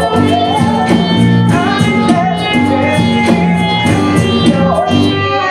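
Live band music: a song with singing over a steady beat.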